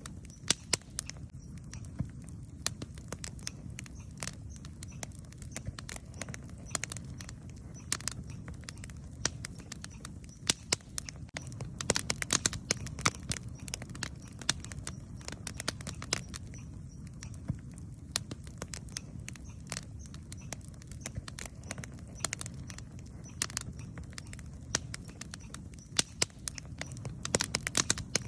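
Wood campfire burning: a steady low rumble of the flames with frequent sharp crackles and pops, denser in bursts in the middle and near the end.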